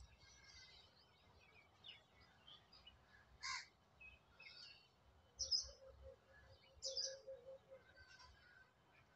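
Faint birds calling in the background: scattered short chirps, a few louder calls, and a quick run of repeated notes about five to eight seconds in.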